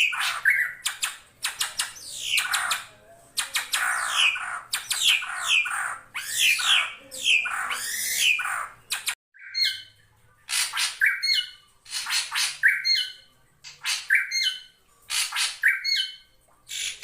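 Drongo calling: dense harsh squawks and sliding, chattering phrases for the first half, then, after a sudden break, a short two-part call repeated about once a second.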